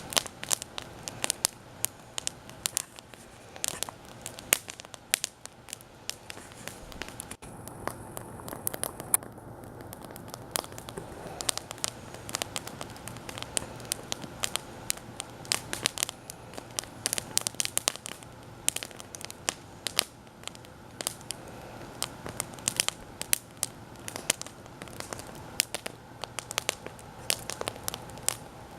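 Wood campfire crackling, with frequent irregular sharp pops and snaps over a steady background hiss.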